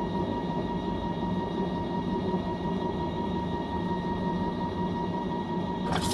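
Fisher & Paykel MW059 washing machine running with a steady hum. Near the end a sudden, continuous hiss cuts in.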